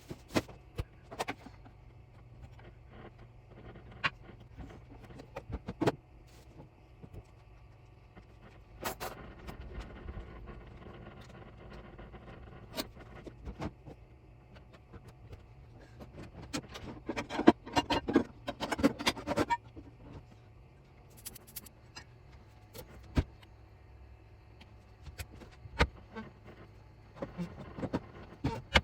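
Scattered clicks and knocks of objects being handled, with a denser run of clattering about two-thirds of the way through, over a low steady hum.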